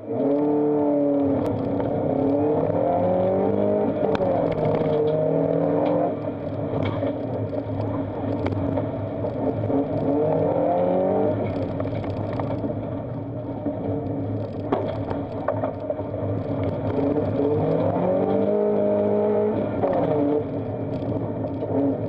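Subaru Impreza's flat-four engine heard from inside the car, pulling away hard and accelerating through the gears, its pitch climbing and dropping back several times as it shifts and lifts off. Gravel ticks and clatters against the car throughout.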